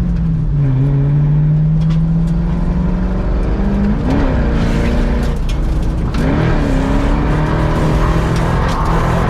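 A car engine running at high load, its note climbing steadily, then rising and falling in two short swells about four and six seconds in.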